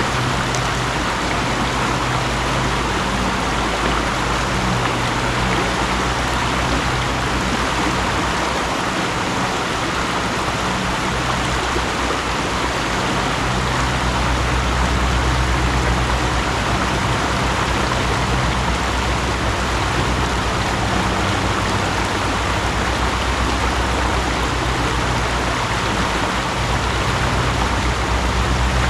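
Mountain stream flowing: a steady rush of water with a low, shifting rumble underneath.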